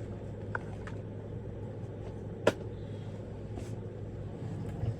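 Small items and packaging being handled, giving a few light clicks and one sharp tap about two and a half seconds in, over a steady low hum.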